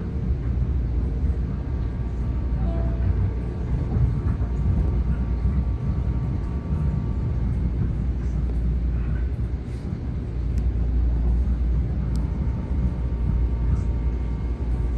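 Metro-North M7A electric railcar running on the rails, heard from inside: a steady low rumble of wheels and running gear, with faint steady tones that shift partway through and a few sharp ticks in the second half.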